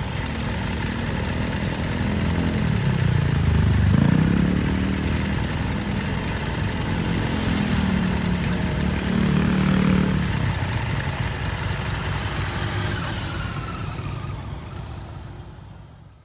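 Harley-Davidson Forty-Eight's air-cooled V-twin running under way, its note rising and falling twice as it accelerates and eases off, then fading out at the end.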